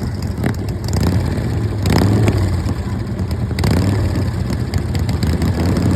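Vintage racing engine running with a steady low drone, with a few sharp cracks about two seconds in and again at about three and a half seconds.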